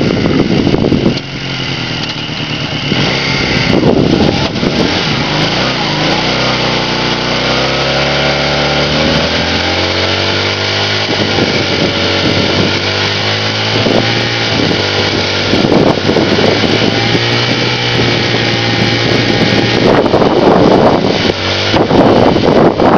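1981 Honda CM200T's small parallel-twin engine revved hard and held at high revs during a brake stand, the brakes holding the bike while the rear tire spins in place. The engine note rises and falls in pitch several times partway through.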